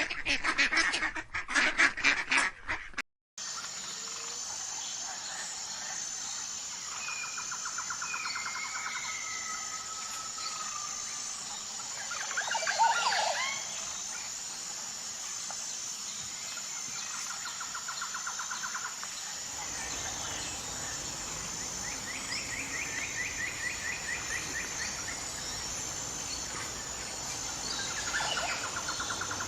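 Loud animal cries for the first few seconds. After a sudden cut, birds call over a steady high-pitched whine: short rapid trills and gliding calls, some rising, a few seconds apart.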